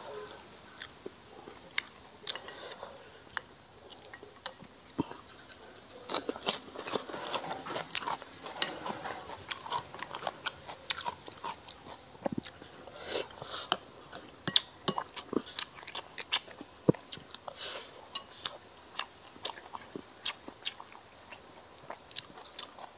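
A person eating crispy fried pork and rice with chopsticks, close to a clip-on microphone: chewing with many sharp, irregular crunches and small clicks.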